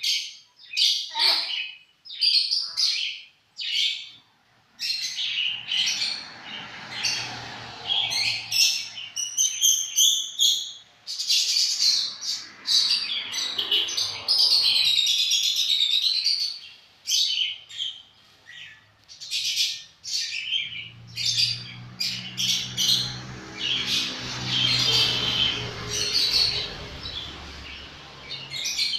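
Lovebird chirping and chattering: a string of sharp, high calls, with a fast trill about ten seconds in and a longer warbling run around fifteen seconds.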